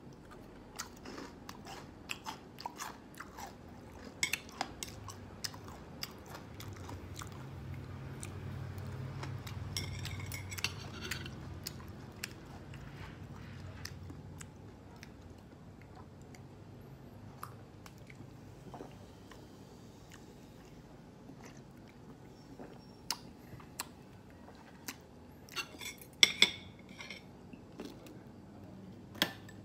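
Close-up chewing and crunching of deep-fried battered pork, the crisp coating crackling with each bite. A few louder sharp clicks come near the end.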